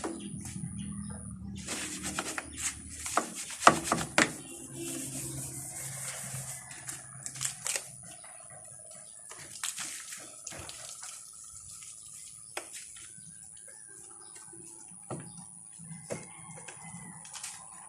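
Water splashing and dripping, with scattered knocks and clicks, busiest in the first half. A thin steady high tone sounds in the background.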